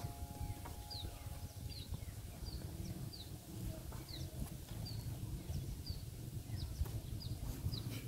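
A small bird calling over and over: short high chirps, each dropping slightly in pitch, roughly two a second, over a low steady rumble.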